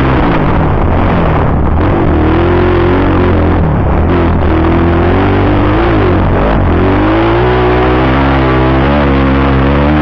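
Motocross bike engine revving, its pitch dropping and climbing again several times as the rider works through the revs, with music playing underneath.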